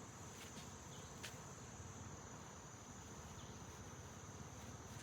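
Faint, steady high-pitched drone of insects such as crickets, with a few light clicks in the first second or so.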